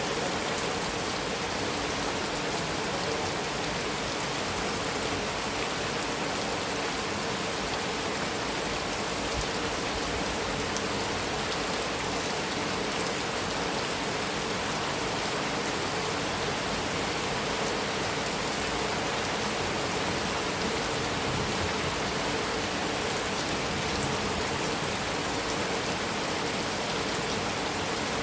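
Heavy rain falling steadily on a metal roof, an even hiss of many drops with no thunder.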